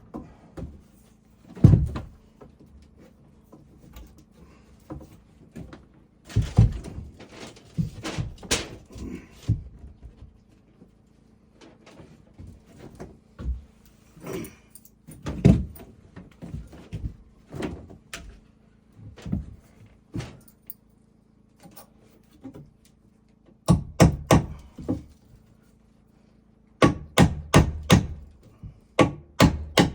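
Wooden knocks and thuds at irregular intervals, then quick runs of hammer blows on wood near the end, as in nailing framing lumber.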